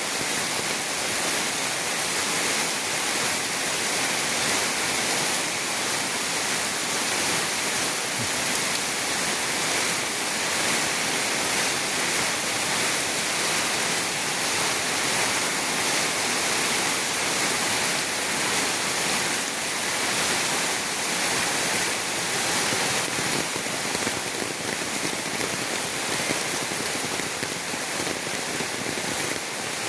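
Heavy rain from a tropical storm falling steadily, a dense, even hiss of drops that holds the same level throughout.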